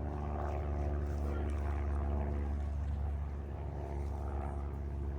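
Air conditioner unit humming steadily: a low, even hum of several tones.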